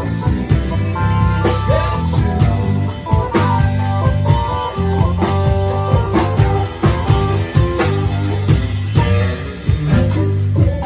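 A live band playing, with electric guitar and bass over a steady beat.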